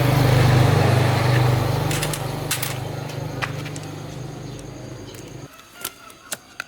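A machine running with a steady low hum and a hiss that fades; it cuts off abruptly about five and a half seconds in, followed by a few light clicks.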